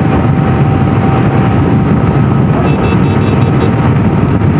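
Heavy wind blasting on a GoPro action camera's microphone while riding a motorcycle at speed, with the bike's engine running underneath. It is a strong, gusty wind that is pushing the bike sideways.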